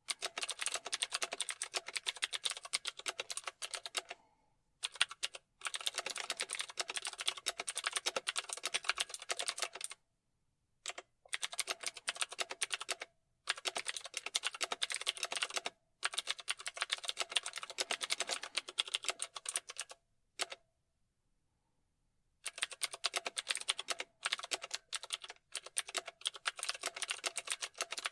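Fast typing on a keyboard: quick runs of key clicks lasting a few seconds each, broken by short pauses, the longest about two seconds a little past two-thirds of the way through.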